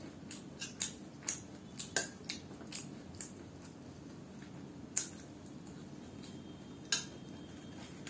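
Close-miked chewing of crunchy poha and potato chips: a quick run of sharp crackles in the first three seconds. Two louder clicks follow about five and seven seconds in, the second with a brief metallic ring, fitting a spoon touching the steel plate.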